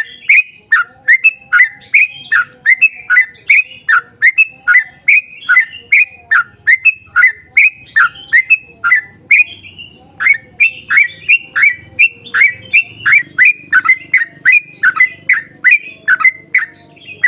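Yellow-vented bulbul (trucuk) singing a long, rapid run of short repeated notes, about two a second, with a brief break about midway.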